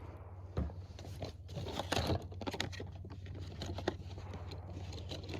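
Irregular rustling and crinkling with small clicks, over a steady low hum.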